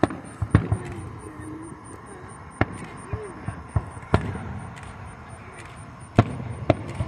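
Aerial firework shells bursting in the sky: about eight sharp bangs at uneven intervals, the loudest about half a second in and about six seconds in.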